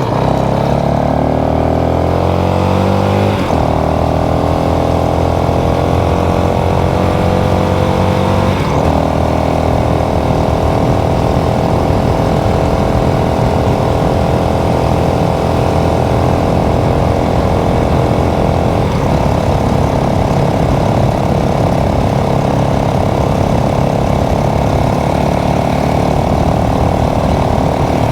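Motorcycle engine accelerating and shifting up twice, the pitch climbing and dropping about 3 and 9 seconds in, then running at a steady cruising speed with a brief blip near 19 seconds.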